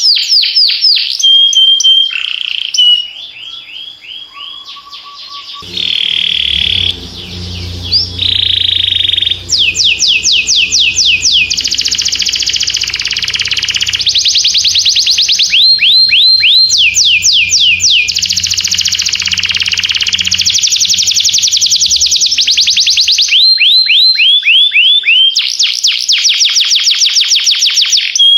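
Domestic canary singing: fast trills of rapidly repeated downward-sweeping notes, broken by short held whistles. A low steady drone sits underneath through the middle of the song.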